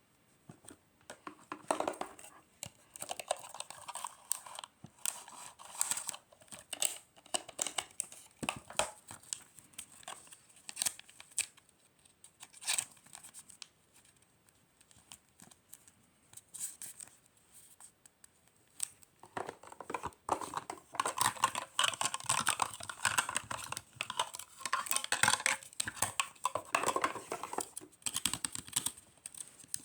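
Paper and plastic packaging handled by hand while wrapping a gift: irregular crinkling, rustling and tearing, busiest in the last third.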